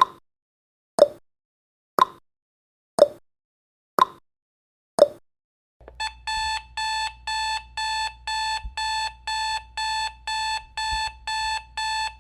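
Countdown timer sound effect: clock ticks once a second, then about six seconds in the timer runs out and an alarm-clock beeping starts, short beeps of one steady pitch about twice a second.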